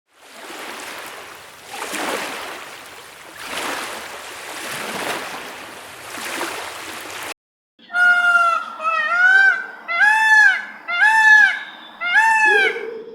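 Animal sounds: for about seven seconds, a breathy, noisy sound that swells and fades about every second and a half. Then, after a short break, five pitched calls about a second apart, each rising and then falling in pitch.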